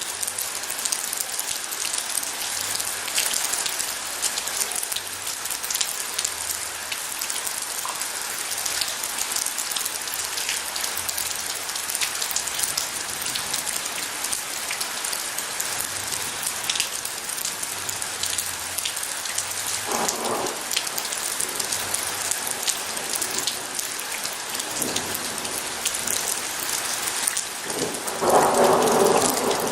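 Steady rain falling on a surface, a dense hiss with many distinct drops spattering. About two-thirds through there is a short rumble of thunder, and near the end a louder roll of thunder begins.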